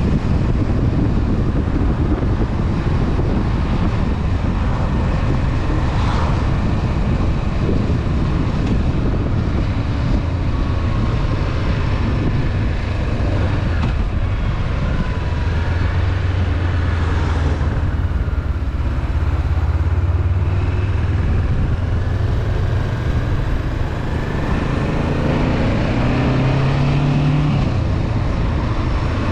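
Honda CB500F parallel-twin motorcycle engine running under way, heard with a steady rush of noise; the engine note shifts in pitch near the end.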